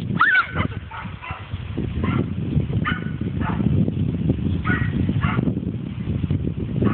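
A dog yipping and whimpering in play: a high whine that rises and falls near the start, then a few short, sharp calls spread through, over a steady low rumble.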